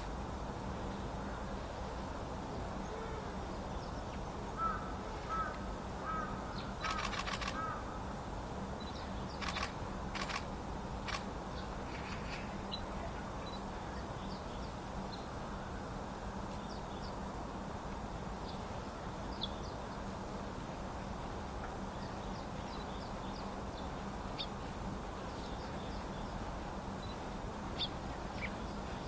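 Wild birds at a winter drinking spot: a few harsh, crow-like calls about five to eight seconds in, a handful of sharp flutters or clicks around ten seconds, and faint short high chirps throughout, over a steady low background hum.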